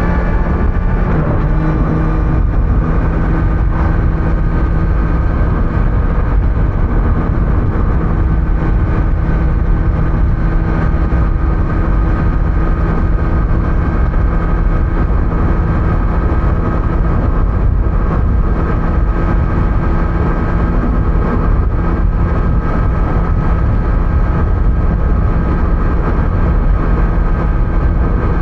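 2025 Kawasaki Z900 inline-four engine running at a steady cruise through its stock exhaust, over wind and road noise. The engine note shifts slightly about a second in, then holds steady.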